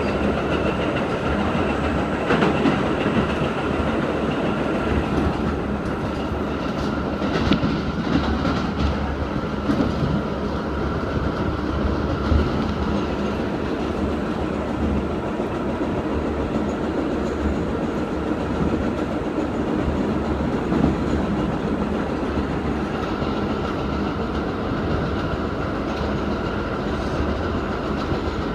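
R68 subway car running along the track, heard from inside the cabin with its ventilation off: a steady rumble of wheels on rail with clickety-clack, and a few sharp clicks and jolts scattered through it.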